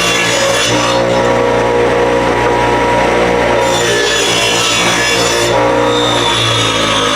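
Table saw running and cutting a cedar fence picket to 4 inches wide, a steady motor hum under the noise of the blade in the wood.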